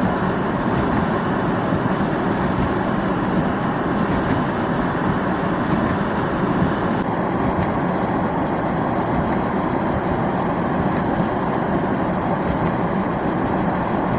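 Steady rumble of a vehicle driving through a blizzard, road noise mixed with wind, changing slightly about seven seconds in.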